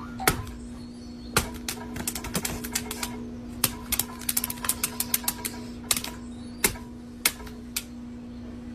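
A run of sharp, irregular clicks and taps, sometimes in quick bunches, over a steady low hum.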